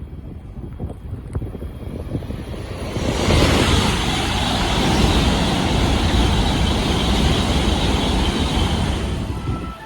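Shinkansen bullet train passing at high speed: a loud, even rush of noise comes on suddenly about three seconds in, holds for about six seconds, and falls away quickly near the end. Wind buffets the microphone before the train arrives.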